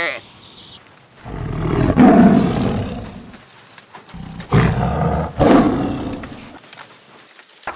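A big cat roaring twice, two long deep roars about a second apart.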